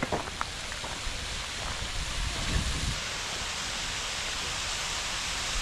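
Waterfall rushing steadily, the roar growing a little louder partway through. A few light clicks near the start.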